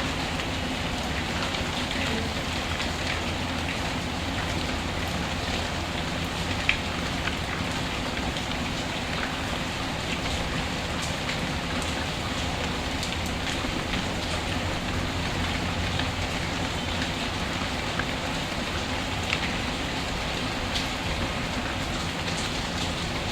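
Steady rain falling and pattering on surfaces, with scattered small sharp ticks throughout and one louder click about seven seconds in.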